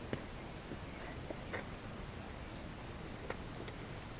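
A cricket chirping steadily in the background, a high pulsing chirp about four times a second, with a few sharp clicks from work on the seat.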